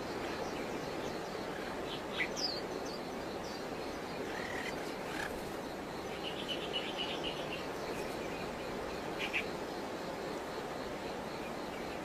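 Wild birds giving short, high calls now and then, including a quick run of notes about halfway through, over a steady outdoor background hiss.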